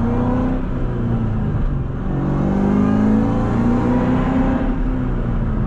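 2003 Ford Mustang SVT Cobra's supercharged 4.6-litre V8 under way, its pitch rising, dropping back about two seconds in, then rising again and holding steady.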